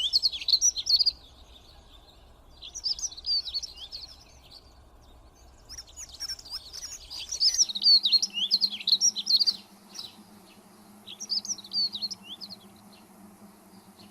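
Dunnock singing: four short phrases of fast, high, jumbled warbling, the third the longest at about three and a half seconds.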